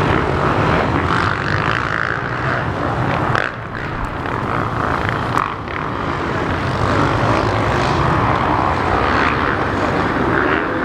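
Motocross dirt bike engines running loud and steady, with a brief dip about three and a half seconds in.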